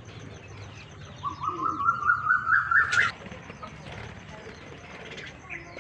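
Budgerigars calling: faint chirping throughout, and starting about a second in, a loud run of quick pulsed calls that climbs steadily in pitch for about two seconds before breaking off.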